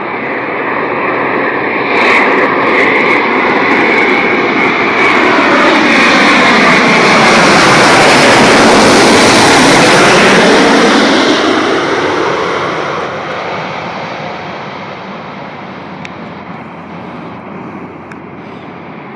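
Jet airliner passing close by. The engine noise swells to a loud peak about eight to ten seconds in, then fades away, with a sweeping, phasing quality as it passes.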